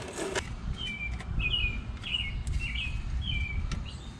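A small bird chirping: about six short, high two-note chirps, roughly two a second, over a low steady background rumble. A brief rustling noise cuts off just after the start.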